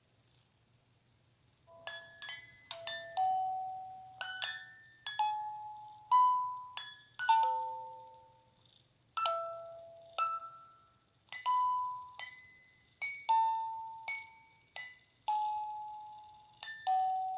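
Lullaby melody played in single bell-like struck notes, each ringing and then fading, about one note every half second to a second. The notes begin about two seconds in after near silence.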